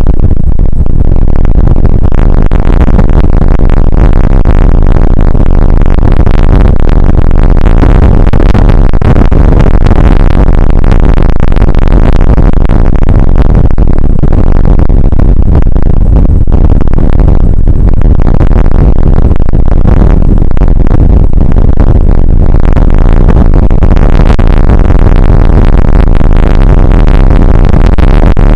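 Loud, overloaded noise of rain and wind on an outdoor weather camera's microphone, a steady distorted rush with a heavy low rumble and dense crackle.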